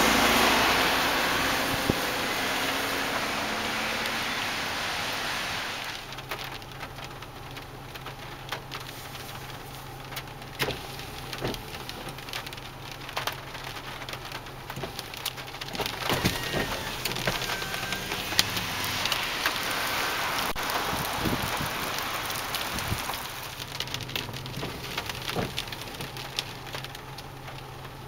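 Rain falling and pattering on a nearby surface, with many separate drop hits heard through a steady hiss. A louder rushing noise fades out over the first six seconds before the pattering takes over.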